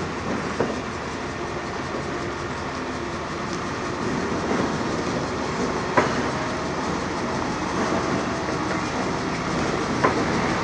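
Steady mechanical running noise with three sharp knocks: one just after the start, one about six seconds in and one near the end.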